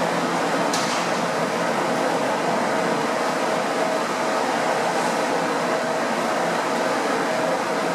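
Boeing 787-8 Dreamliner's auxiliary power unit running steadily on the ground: an even rushing exhaust noise with a faint constant hum, and a brief high hiss about a second in.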